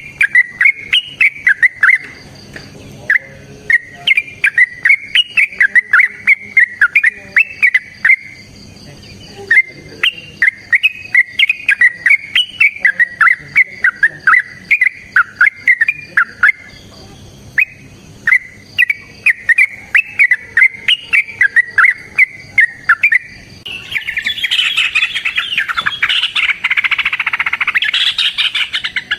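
Yellow-vented bulbul (trucukan) singing long, rapid runs of bubbly chirping notes in three phrases with short pauses between them. Near the end the song turns into a denser, louder, unbroken chatter.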